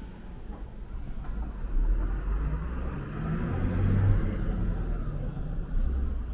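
A motor vehicle driving past: low engine rumble and tyre noise swell to a peak about three to four seconds in, then ease off.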